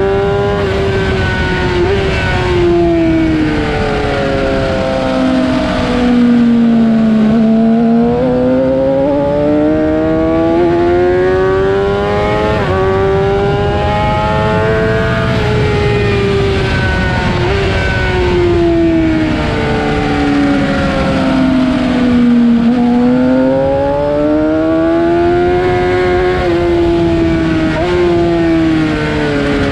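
Suzuki GSX-R750 inline-four engine at racing speed, its pitch climbing in long sweeps as it accelerates and falling away as it slows, with quick steps in pitch at the gear changes. A steady rush of noise lies under it.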